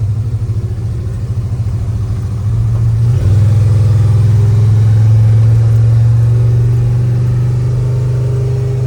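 Vehicle engine running while warming up, steady at first, then stepping up to a higher, louder steady speed about three seconds in and easing back slightly near the end.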